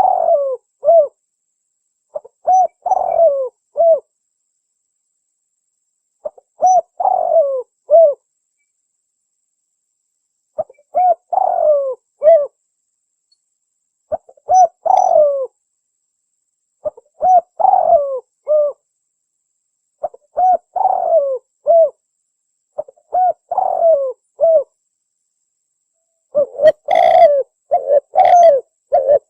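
Spotted dove (tekukur) cooing, a recorded lure call: a phrase of several low coo notes repeated every three to four seconds, the phrases coming back to back and louder near the end.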